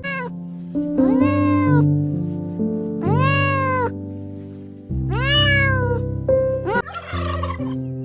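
Domestic cat meowing three times, long drawn-out meows that rise and fall in pitch, about two seconds apart, over background music. Near the end a rougher, noisy call begins.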